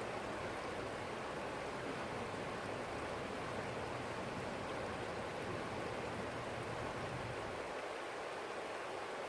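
Forest stream flowing steadily, a continuous rush of water. A faint low rumble underneath drops away near the end.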